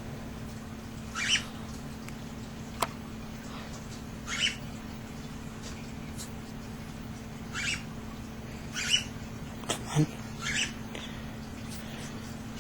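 Nine-day-old cockatiel chicks giving short raspy begging calls, about five, a few seconds apart, over a steady low hum. Two sharp clicks are also heard, one near three seconds in and one about ten seconds in.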